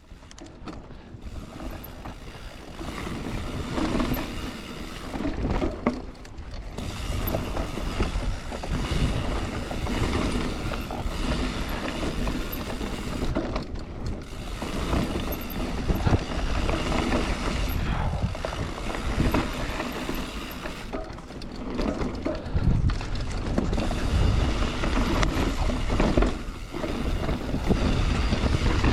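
Mountain bike ridden down a rough trail: tyres rolling over roots and stones, the bike rattling and knocking, and wind rushing on the microphone, with creaking from the bike's bottom bracket. The noise builds up over the first couple of seconds.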